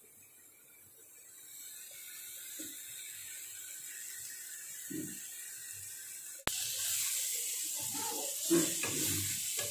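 Masala paste of onion, ginger, garlic and chilli frying in oil in a pan: a steady sizzle that fades in over the first two seconds and turns suddenly louder about six and a half seconds in. A few low knocks come near the end.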